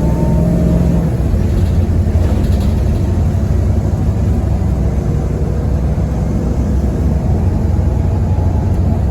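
2010 Nova Bus LFS articulated city bus underway, heard from inside the cabin: its Cummins ISL diesel runs with a steady low rumble and road noise, and a faint whine rises in the first second.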